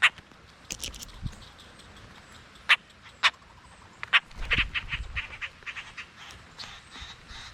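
Birds calling: single short, sharp calls a few seconds apart, then a quick run of calls about four and a half seconds in.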